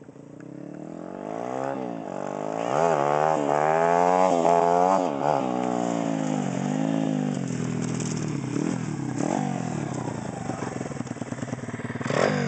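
Stomp 140cc pit bike's four-stroke single-cylinder engine revved in a run of throttle blips, rising and falling several times, then running with its speed wavering and one more blip near the end. The owner says it still isn't running right.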